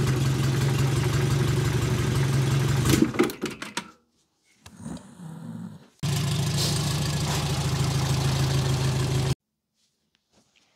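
Renault Dauphine Gordini's rear-mounted four-cylinder engine idling steadily. About three seconds in it breaks off into a few clicks and a short quiet gap, then comes back abruptly and is cut off sharply near the end.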